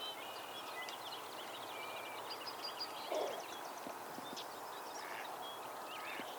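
Small birds chirping and twittering in many short, high notes over a steady background rush, with one brief, louder, lower sound about halfway through.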